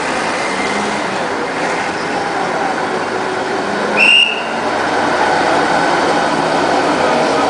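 Classic trucks' engines running steadily as they drive past, with one short, high-pitched whistle-like toot about four seconds in.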